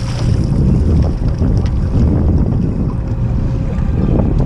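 Wind rumbling on the microphone aboard a fishing boat on open water, with a faint steady hum underneath.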